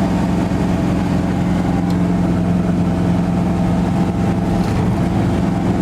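1970 GMC pickup's V8 running steadily through a freshly fitted dual exhaust with aftermarket mufflers, a deep, even exhaust note. The owner says it isn't quite running right.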